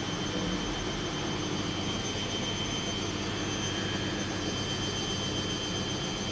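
A machine running with a steady hum and a constant faint high whine, unchanging throughout.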